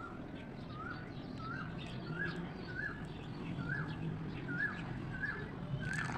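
A bird calling: one short, rising-and-falling chirp, repeated about every 0.7 s over a low steady hum.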